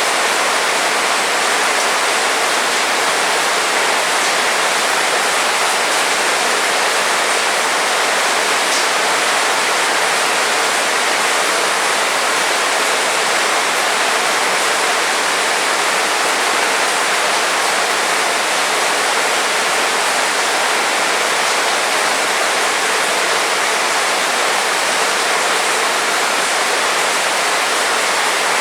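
Heavy rain falling in a steady, even hiss with no let-up.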